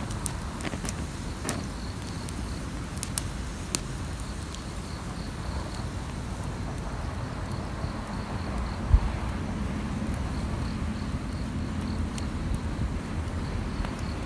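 Wood campfire burning, with a few sharp crackling pops in the first four seconds over a low steady rumble, and a single low thump about nine seconds in. A faint insect chirps in an even rhythm through the second half.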